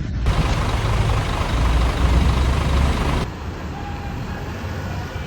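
Scania bus's diesel engine running, a heavy low rumble with broad road and mechanical hiss; about three seconds in it abruptly drops to a quieter, steadier engine sound.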